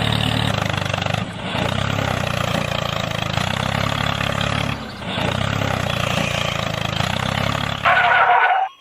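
Mini tractor's engine running steadily with a low, even hum. It dips briefly twice and cuts off suddenly near the end.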